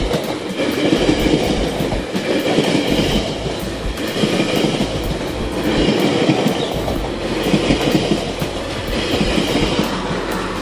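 GO Transit bilevel passenger coaches running through the station at speed without stopping. The wheels give a steady rumbling roar with a continuous clatter of clicks over the rail joints.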